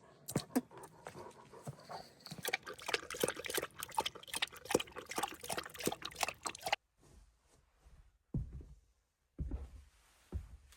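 A dog's noises mixed with busy scuffling and clicking for about seven seconds, then a few dull low thumps.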